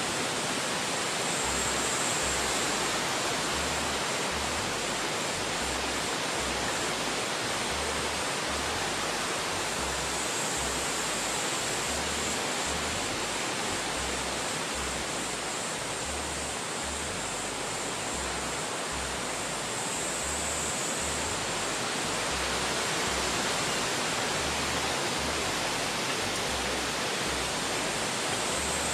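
Wind sound effect: a steady, even rushing hiss that swells and eases slightly in loudness.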